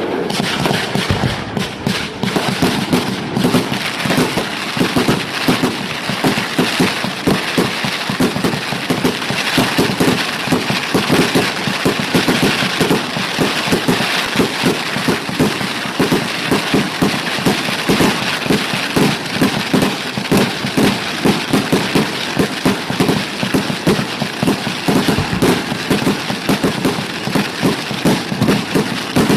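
Fireworks going off in a dense, rapid run of pops and crackles, several a second, without a break.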